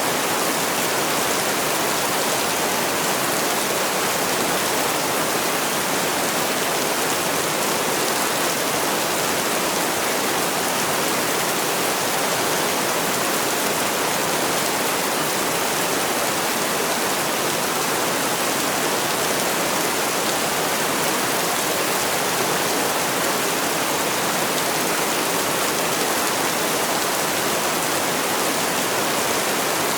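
Heavy rain falling steadily: an even, unbroken hiss of downpour with no distinct drops or pauses.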